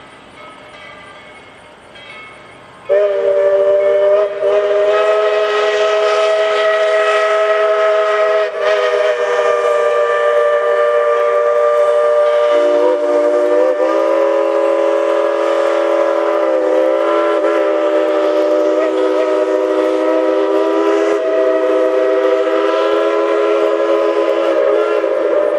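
Steam locomotive whistles of a doubleheader blown in one long continuous blast, starting about three seconds in, as a chord of several notes held for some twenty seconds; about halfway through the lowest note drops a step in pitch.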